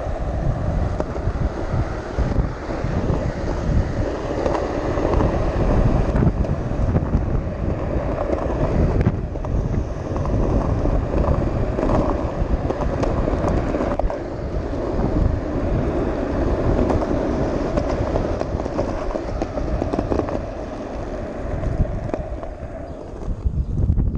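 Steady wind buffeting the microphone, over a continuous low rumble.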